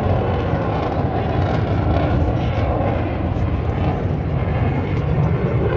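Jet noise of a single-engine F-16 fighter in flight over the crowd, a steady loud rushing sound.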